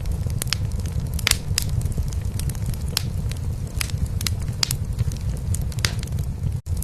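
Wood fire crackling in a fireplace, with irregular sharp pops, over a steady low rumble of a cat purring. The sound drops out for an instant near the end.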